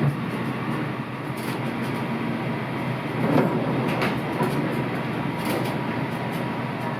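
A train running on its rails, a steady rumble with a few faint clicks.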